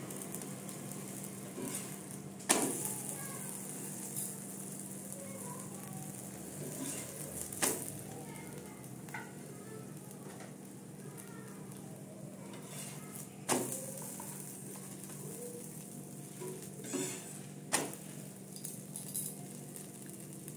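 Aloo paratha frying on an iron tawa over a turned-down gas flame: a steady, faint sizzle, with a few sharp clicks now and then.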